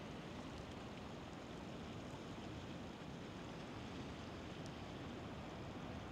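Faint, steady wash of waves and wind at the river mouth.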